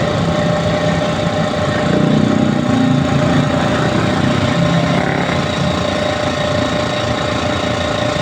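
A 2 hp piston air compressor running steadily: a constant motor hum under a rapid pumping rattle.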